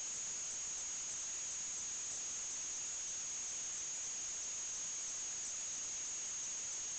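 Steady electronic hiss with a constant high-pitched whine running over it, unchanging throughout: recording noise from the sewer inspection camera system rather than any event in the pipe.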